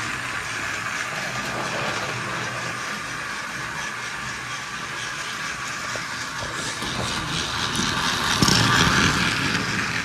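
Battery-powered motorized toy train running on plastic track: a steady small-motor whine with gear and wheel rattle. It gets louder and clatters for a moment about eight seconds in.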